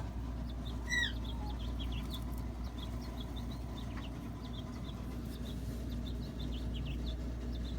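Small songbirds chirping, among them a baby bird calling: short high chirps scattered throughout, with one louder falling call about a second in, over a steady low hum.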